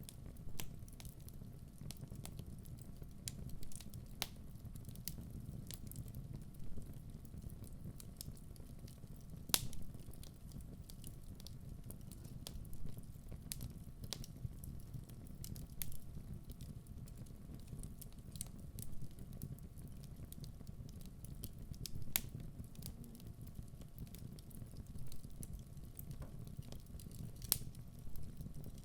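Wood fire burning in a fireplace: a steady low rumble of the flames with scattered sharp pops and crackles from the logs, the loudest pop about ten seconds in.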